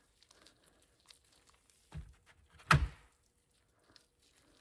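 Faint handling sounds of a bicycle hub bearing being packed with grease by hand. There is a soft knock about two seconds in and a louder, sharper knock with a brief scrape just before the three-second mark.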